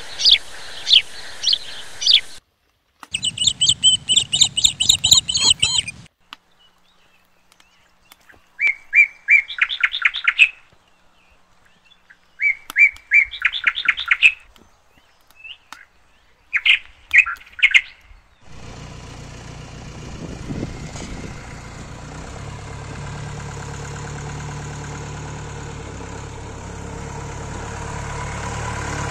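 Birds calling in several separate bursts of rapid, repeated chirping trills. About two-thirds of the way in, a steady motor-vehicle engine starts running and grows louder toward the end.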